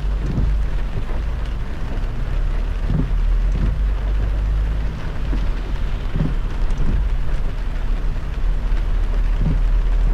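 Heavy rain on a moving car over a steady low road rumble, with a pair of soft thumps about every three seconds.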